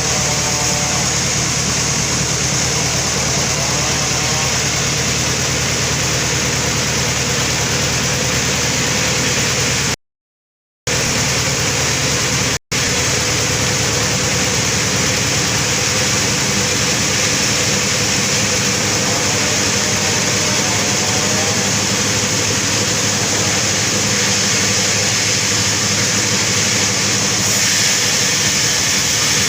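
Sawmill running, its saw cutting through a very large albasia log, a steady loud engine-and-saw noise. It is broken by a short silent gap about ten seconds in and a brief dropout nearly three seconds later.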